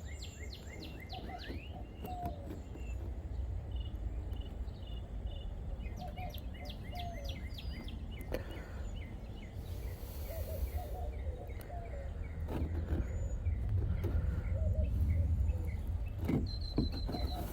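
Birds chirping in repeated short calls and quick falling sweeps over a steady low rumble, with a brief hiss about ten seconds in.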